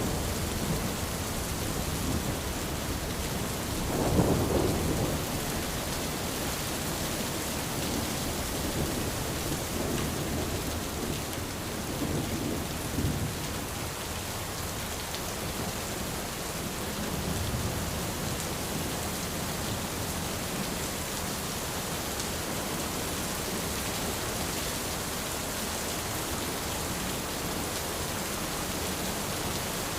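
Rain falling steadily on an umbrella, with low rumbles of thunder; the loudest rumble comes about four seconds in.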